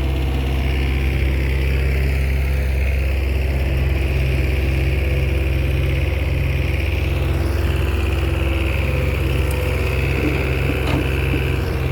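Komatsu bulldozer's diesel engine running steadily, with a few faint clicks near the end.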